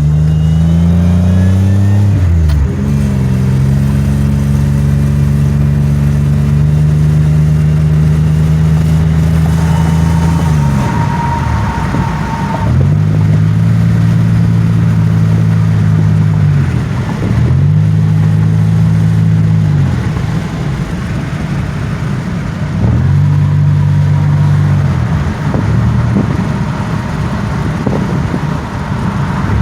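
2007 Pontiac Grand Prix GT engine heard from inside the car while driving. It revs up, drops in pitch at a gear change about two and a half seconds in, and holds steady. It then repeatedly rises and falls in pitch as the car speeds up and eases off, running smoothly.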